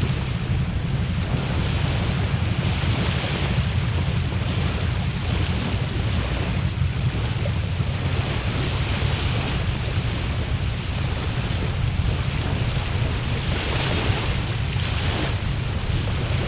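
Wood fire burning in a Coleman Fire Disc fire pit, with a few faint crackles under a steady low rumble of wind on the microphone and a thin, steady high whine above.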